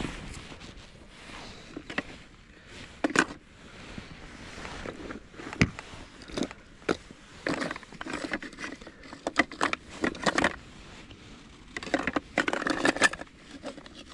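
Handling noises: irregular sharp clicks and knocks with bouts of scraping and rustling, busier in the second half.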